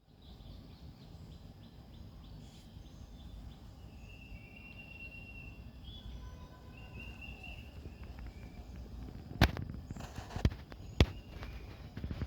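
Quiet rural outdoor ambience with a low rumble and faint, short bird calls, then three sharp knocks in the last few seconds.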